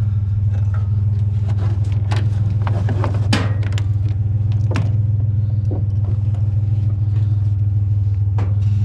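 Vehicle engine idling with a steady low hum, overlaid with a scatter of light clicks and knocks in the middle and one near the end as a tie-down strap and the load are handled.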